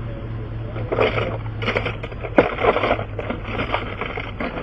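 Tools and metal objects being moved and scraped in an irregular clatter while searching for a striking tool, with one sharp click about two and a half seconds in, over a steady low hum.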